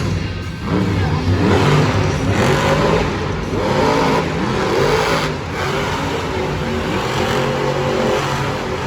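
Monster truck engine revving loudly, its pitch climbing and falling several times.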